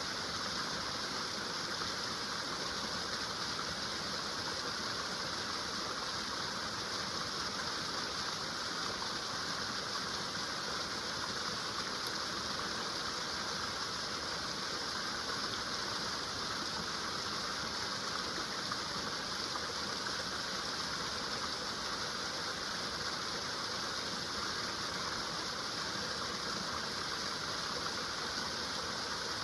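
Small woodland stream spilling over little waterfalls: a steady, unbroken rush of running water.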